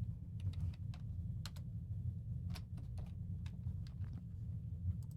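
Computer keyboard being typed on in scattered, irregular clicks, over a steady low hum.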